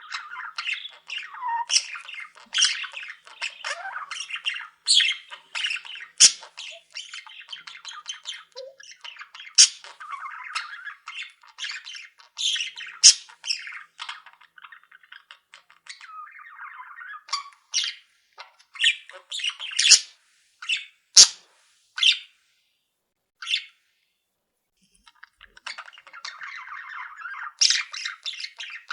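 A flock of pet cage birds, budgies among them, chattering, chirping and squawking all at once, with sharp loud calls standing out over the warbling. The birds go briefly quiet about two-thirds of the way through, then start up again.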